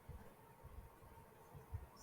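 Near silence: a faint steady hum with a few soft, low thumps, the strongest near the end.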